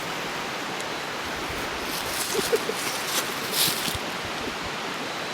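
Steady outdoor rushing noise with a few brief rustles near the middle, as of someone moving about in leaves.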